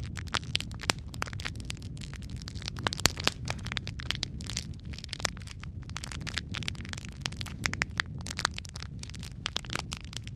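Wood fire burning in a fireplace: a steady low rumble of flames with dense, irregular crackling and popping from the logs, one louder pop about three seconds in.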